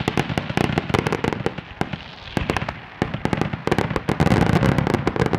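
Fireworks going off in quick succession: many sharp cracks and pops over a low rumble of bursts, easing off briefly about halfway through and then building again.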